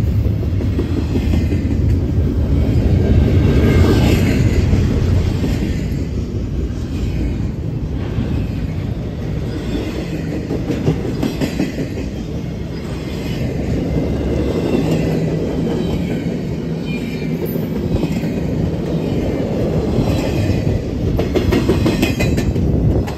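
Double-stack container well cars of a freight train rolling past, steel wheels clicking over the rail joints over a steady low rumble. The sound falls off suddenly at the very end as the last car clears.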